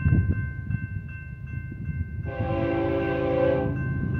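Freight train rumbling by with a steady high whine, and a diesel locomotive's horn sounding one blast of about a second and a half a little past the middle.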